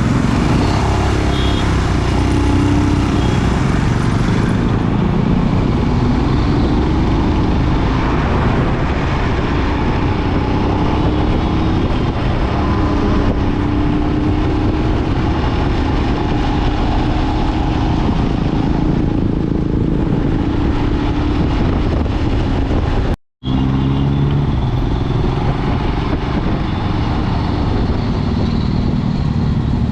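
Motorcycle engine running at road speed under a heavy low rumble, its pitch slowly rising and falling. The sound cuts out for a split second about three-quarters of the way through.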